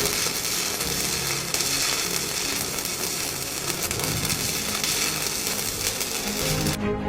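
Stick (MMA) welding arc burning a 3.25 mm 7018 electrode at about 160–170 A from an inverter welder, a steady crackling hiss. It cuts off suddenly near the end as the arc is broken.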